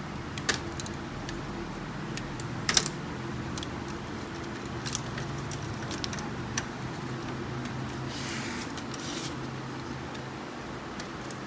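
Scattered sharp plastic clicks and light knocks as cable connectors are unplugged from a laser printer's scanner unit, the loudest click a little under three seconds in. A brief scraping rustle comes about eight seconds in, over a steady low hum.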